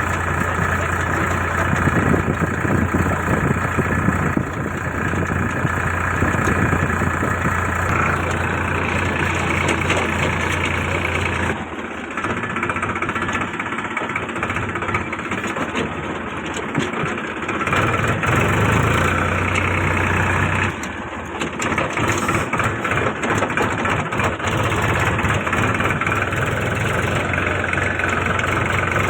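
Diesel tractor engine running steadily at a low, even speed. The sound changes about twelve seconds in and again around twenty-one seconds.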